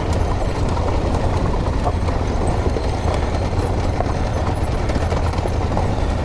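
Adventure motorcycles ridden slowly off-road, with a steady engine rumble mixed with tyre and ground noise and wind on the microphone.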